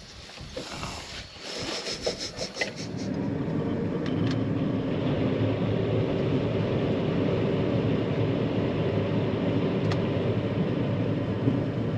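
Farm harvest machinery, a combine, is engaged after a repair. A few rattling clicks come first, then about three seconds in it comes up to a steady running drone. It is running normally, the repair having taken.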